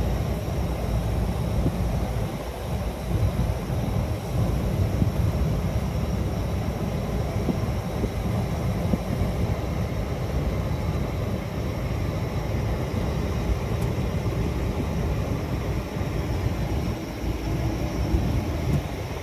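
Truck on the move: a steady low rumble of engine and road noise.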